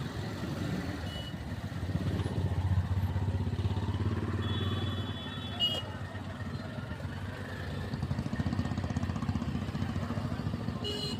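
A motor vehicle engine running steadily with a rapid low pulsing rumble, amid road noise. A short high tone cuts in about four and a half seconds in and lasts about a second.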